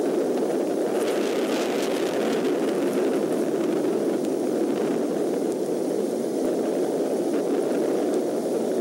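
Steady hiss of rain on the eagle nest camera's microphone, with a brighter crackly stretch from about one to three seconds in as the eaglets flap their wings.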